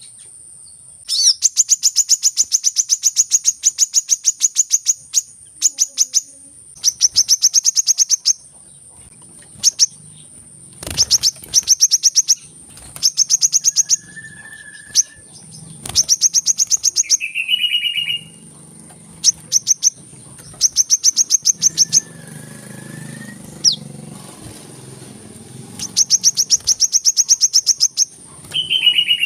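Sunbird calls: loud bursts of very fast, high chittering trills, each lasting one to four seconds and repeated many times, with a few short, lower whistled notes in between.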